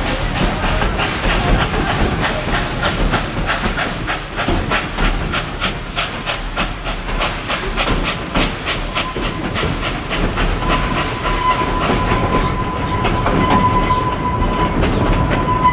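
Steam train heard from an open passenger car: a rapid, regular clatter of wheels on the track, about four beats a second, with a hiss, fading about two-thirds of the way through. A steady high squeal starts about two-thirds through and holds to the end.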